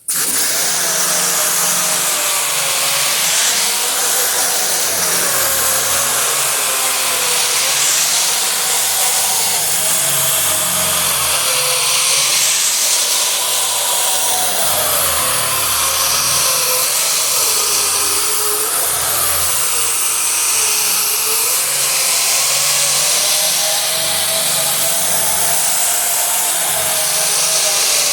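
Power sander with a 36-grit disc grinding paint off a car hood's sheet metal. The motor whines without a break, its pitch wavering up and down as it is worked back and forth under changing pressure, over a loud abrasive hiss.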